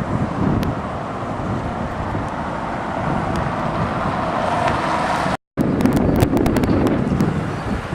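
Steady street traffic noise with wind on the microphone. The sound drops out for a split second about five and a half seconds in, and afterwards wind crackles on the microphone.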